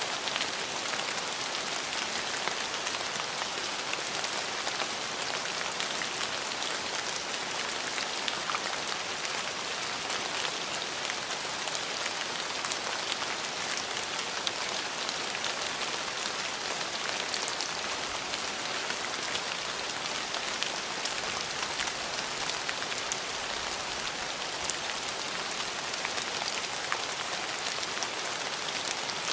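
Steady rain falling, with fine drop patter over an even hiss.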